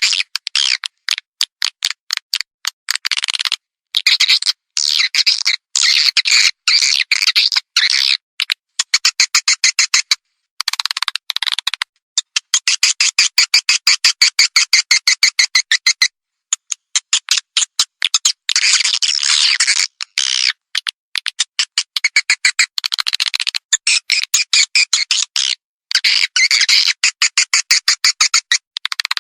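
Swiftlet lure call (suara panggil walet), the recorded chirping played to draw swiftlets into a nest house. Rapid trains of high twittering chirps and clicks stop and start every second or few seconds.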